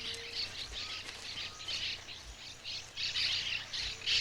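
Monk parakeets squawking: a fast, continuous run of short, harsh calls, several a second.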